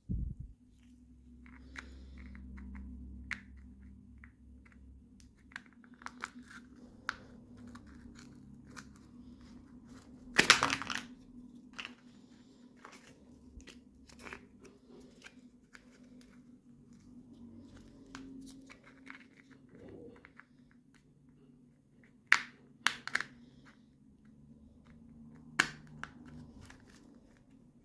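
Toy packaging being handled and torn open: scattered crinkles and clicks, with a loud burst of tearing about ten seconds in and a few sharp snaps near the end.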